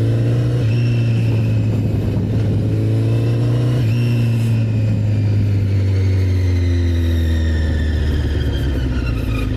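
Honda CBR1000RR Fireblade's inline-four engine under way, its pitch climbing near the start and again about four seconds in, then falling slowly over the last few seconds as the bike eases off.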